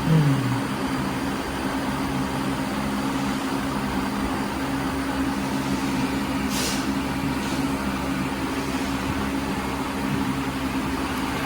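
A machine running with a steady low hum, its pitch sliding down and settling just at the start, with one short hiss about two thirds of the way through.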